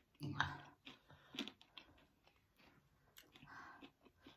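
Close-miked chewing of a mouthful of spicy chatpate, soft and wet, with a few sharp crunches along the way.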